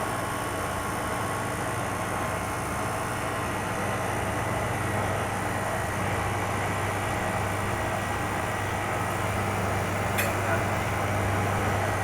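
Ice cream machine running with a steady motor and compressor hum, being tested after a repair to stop it dripping. A single short click about ten seconds in.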